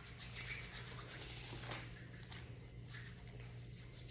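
Hands rubbing together during hand cleaning: a soft, faint rubbing with scattered small ticks and rustles.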